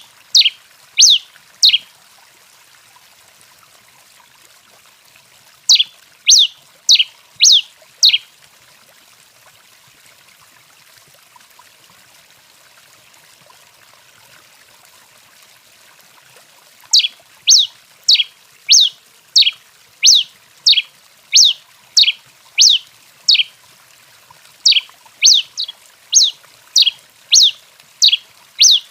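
A tico-tico-rei (pileated finch) singing a series of sharp, high, downslurred notes, about two a second. The notes come in runs: a few at the start, a short run near a quarter of the way in, and long runs through the last third, with faint steady hiss in the gaps.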